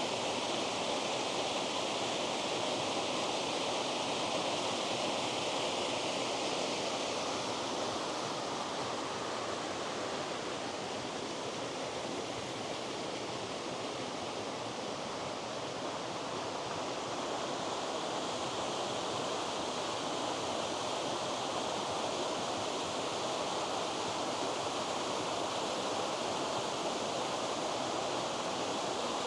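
A waterfall's rushing water, a steady, unbroken roar.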